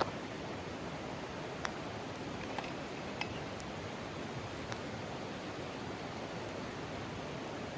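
Mountain stream rushing steadily, with a few light clicks and clinks over it.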